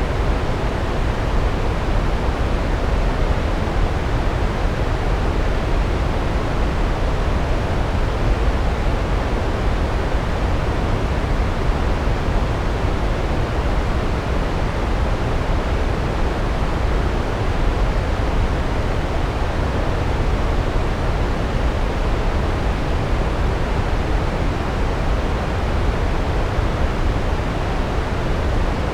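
Large waterfall: a steady, deep rush of falling water, even and unbroken throughout.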